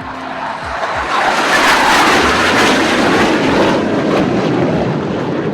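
Jet aircraft of the Surya Kiran aerobatic team passing overhead. The jet noise swells to a peak about two seconds in, then fades with a falling pitch.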